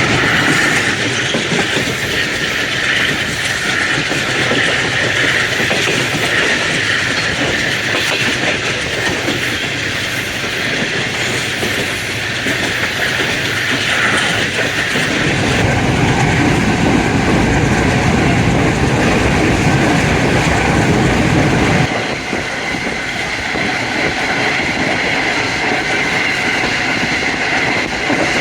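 Passenger train under way behind an AGE30 'Blue Tiger' diesel-electric locomotive: steady running noise of the wheels on the rails and the locomotive's engine. About halfway through a heavier low rumble sets in, and it cuts off suddenly about 22 seconds in.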